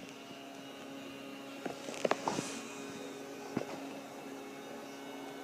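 A steady low electrical hum with a few short clicks and taps.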